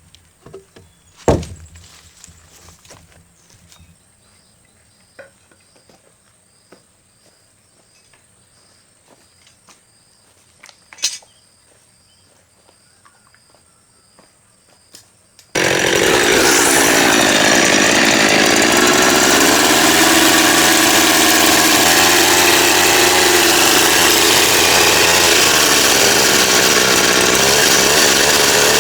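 A few sharp knocks over faint high chirps, then about halfway in a power saw starts suddenly and runs loud and steady, cutting timber, its pitch wavering under load.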